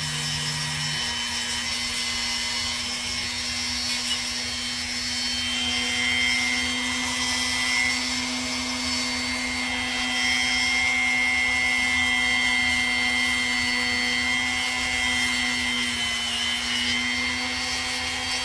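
Small rotary grinding tool (Dremel-type) running at a steady speed with a constant whine, grinding down a parrot's toenail.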